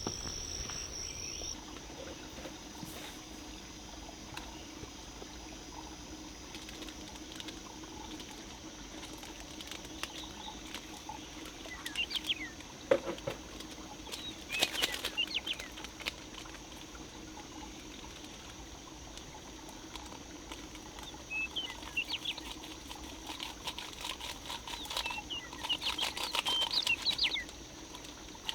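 Campfire crackling and popping, with clusters of short high squeaks and chirps about halfway through and again near the end, over a steady high-pitched drone.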